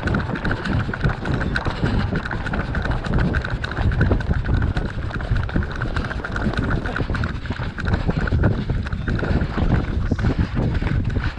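Footsteps of a crowd of runners in a mass race start, a dense stream of thumps, mixed with knocking and rubbing from the shaking GoPro.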